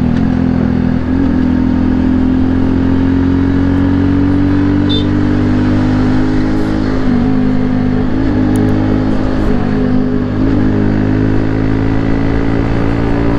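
Hero Splendor motorcycle's single-cylinder four-stroke engine running steadily under way, heard from the rider's seat, with a deep exhaust note that the rider likens to a Yamaha RX 100. The note climbs slightly in pitch, then dips and recovers a few times in the second half as the throttle is eased.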